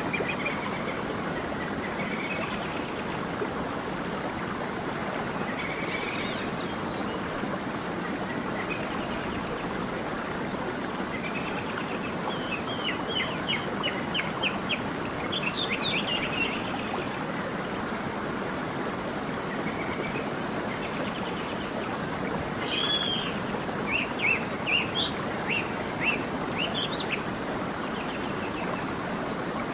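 A stream running steadily with songbirds calling over it: scattered chirps, a quick run of rapid notes about twelve seconds in, and another burst of whistled and sliding notes in the last third.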